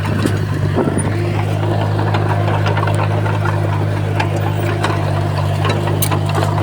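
Heavy diesel engine running steadily with a deep, even hum, with scattered light clicks and clanks over it.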